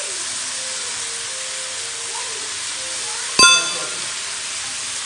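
Fenugreek leaves and potato cubes sizzling steadily in hot oil in a wok as they are stirred. A single bright bell-like ding rings out about three and a half seconds in and fades quickly.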